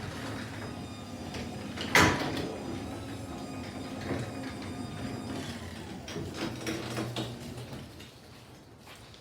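Overhead garage door running on its electric opener, the door moving along its tracks with a steady mechanical noise and small knocks, and one loud clunk about two seconds in. The noise dies away near the end as the door stops.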